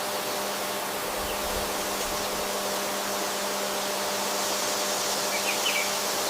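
Steady hiss with a faint low hum under it, and a few faint high chirps about five and a half seconds in.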